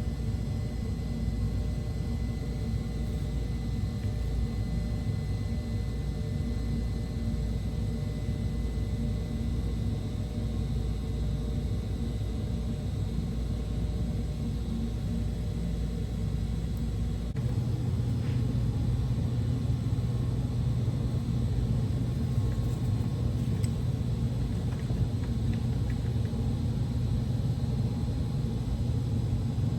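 A steady machine rumble with a constant hum, which changes to a different, steadier low hum about 17 seconds in.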